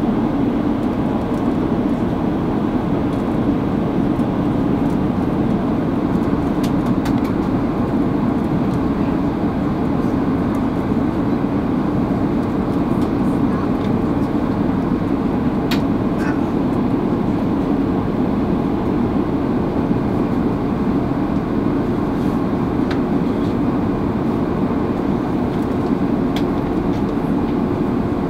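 Steady cabin noise inside an Airbus A330-300 airliner in flight: an even, low rush of engine and airflow noise, with a few faint ticks.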